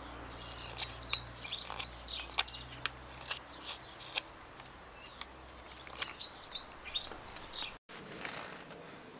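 A garden bird singing two quick phrases of high, arching chirps, the second about six seconds in. Scattered sharp clicks of a carving knife cutting dry alder wood come between them.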